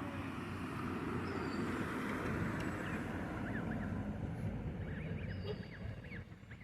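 Newly hatched goslings peeping in short, high rising-and-falling chirps, a few at a time, over a steady low rumble that fades near the end.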